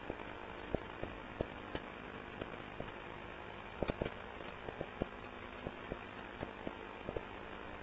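Refrigerator compressor running faintly and steadily after being plugged in, with scattered light ticks at irregular intervals.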